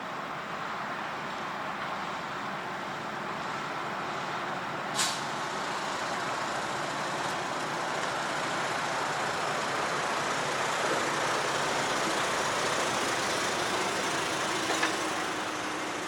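Railcar running, a steady mechanical noise that slowly grows louder, with a short sharp air hiss about five seconds in.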